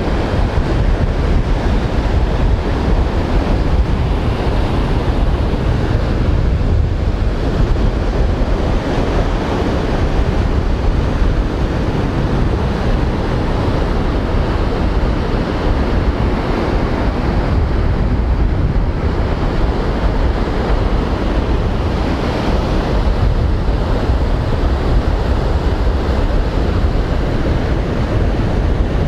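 Strong wind buffeting the microphone over the rush of rough surf breaking on the beach, a steady heavy rumble with slow surges.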